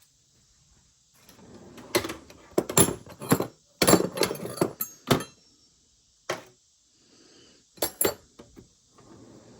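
Small metal hand tools clinking and clattering as they are picked up and put down: a cluster of sharp clanks between about two and five seconds in, then a few single clanks later.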